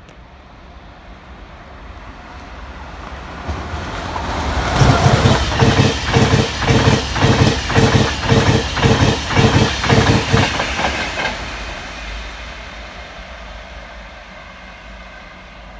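Express passenger train passing through the station at speed: a rush that builds up, then about six seconds of rhythmic wheel clatter over the rail joints, roughly two clacks a second, fading away as the train goes by.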